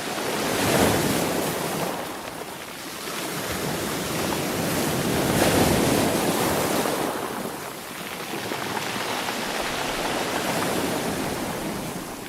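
Sea waves breaking and washing on the shore, the surf swelling and falling back in slow surges, the two biggest about a second in and about five seconds in.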